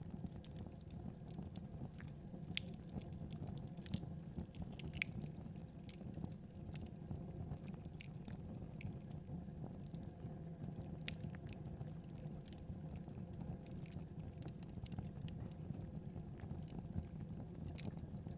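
Wood fire burning steadily with a low rumble, crackling and popping in irregular sharp snaps, a few louder pops scattered through.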